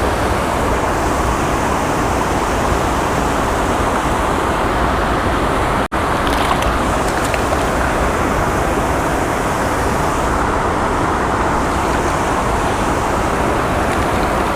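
Steady rush of water pouring over a creek spillway waterfall, cutting out for an instant about six seconds in.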